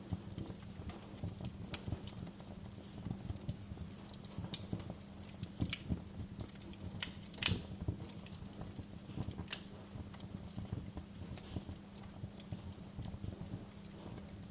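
Wood fire crackling in a fireplace: irregular snaps and pops over a low steady rumble, with one louder pop about halfway through.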